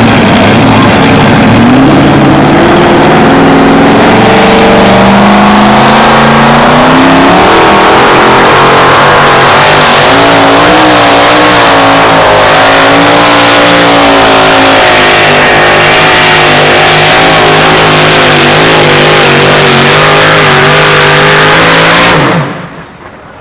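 Two-wheel-drive pulling truck's racing engine at full throttle during a pull. It is very loud, and its pitch climbs over the first several seconds, then holds with a slight waver. It cuts off suddenly near the end.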